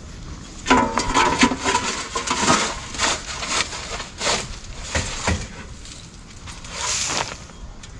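Cleaning out a chicken coop: old bedding is scraped out of the coop and dumped, making an irregular run of scrapes and knocks, with a short squeaky scrape about a second in.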